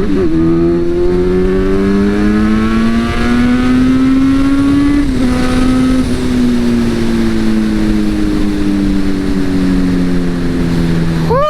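Kawasaki superbike engine through an Akrapovic exhaust, heard from the bike while riding, with wind rushing on the microphone. The engine note climbs steadily for about five seconds, dips briefly as if on a gear change, then sinks slowly under easing throttle, ending with a quick sharp rev blip.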